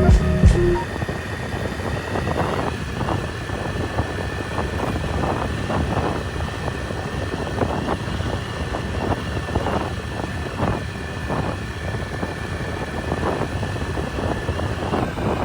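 A vehicle running steadily, a low rumble with frequent light rattles and knocks, and a faint steady whine that stops near the end.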